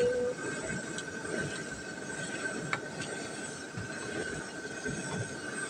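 Pork belly and onions sizzling in a pan of soy-sauce gravy while a wooden spatula stirs and scrapes through them, with a few light knocks of the spatula against the pan and a thin steady tone underneath.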